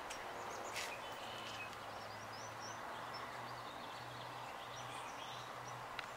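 Quiet outdoor ambience: faint, scattered bird chirps over a low steady hum, with a couple of soft clicks.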